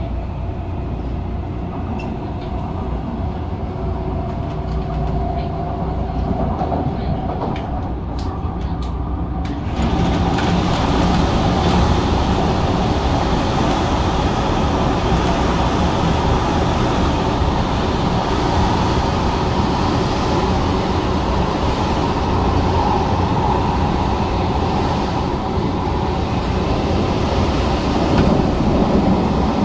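MTR Tung Chung line CAF electric train running at speed, heard from inside the car. Its steady running noise carries a few steady motor tones at first, then turns suddenly louder and harsher about ten seconds in and stays so.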